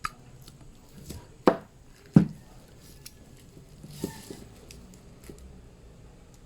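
A few separate knocks and clicks, as of hard objects being handled and set down, the loudest two about a second and a half and two seconds in, with a brief hiss about four seconds in.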